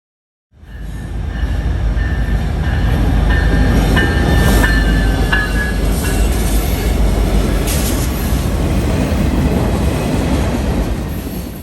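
Train rolling past close by: a loud, heavy rumble of wheels on rail, with a thin high wheel squeal in the first half and a few sharp clicks.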